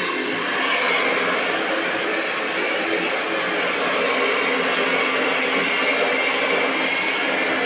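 Hair dryer running steadily on continuous airflow, a constant rush of blowing air with a faint whine from its motor and fan.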